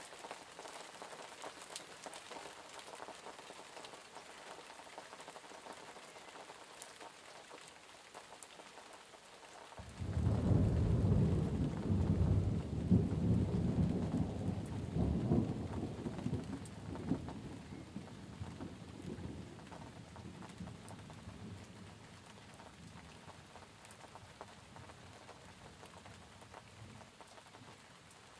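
Steady rain falling, with a clap of thunder that breaks in suddenly about a third of the way through, rumbles low for several seconds and slowly fades back under the rain.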